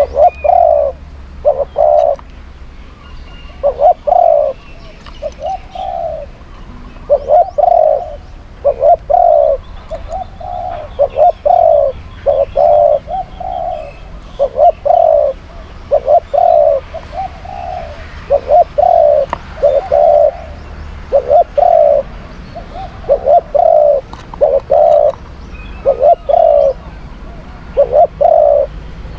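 Spotted doves cooing: short phrases of two or three low, throaty coos repeated every second or two.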